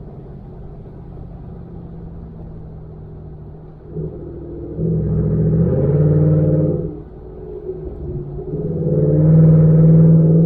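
2019 Ford F-150's engine through a Borla ATAK aftermarket exhaust, at a steady low drone while cruising, then getting louder twice as the truck accelerates: about five seconds in and again near the end.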